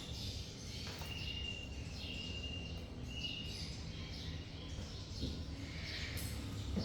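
A bird whistling three high, steady, held notes in a row, each about half a second long, then softer scattered chirps, over a constant low background rumble.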